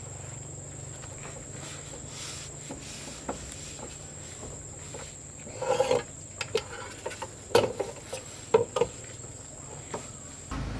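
Steady high-pitched insect drone over a low hum, with a few sharp knocks and clatter from about halfway through. Everything stops abruptly near the end.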